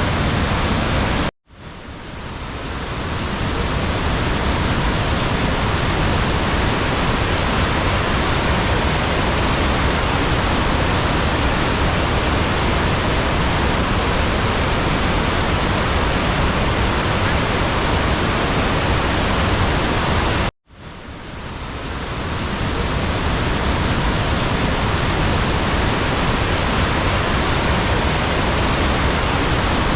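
Rhine Falls waterfall rushing, a loud steady roar. It cuts out twice, about a second and a half in and again about twenty seconds in, and each time swells back over a couple of seconds.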